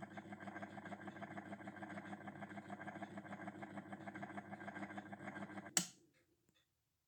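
A small electric machine runs with a steady, fast-pulsing hum, then switches off with a click nearly six seconds in.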